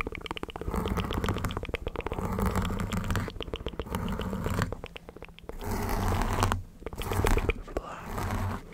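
Close-miked ASMR mouth sounds: a fast run of wet mouth clicks, then several separate breathy bursts of air with a low rumble on the microphone, about a second each, in the second half.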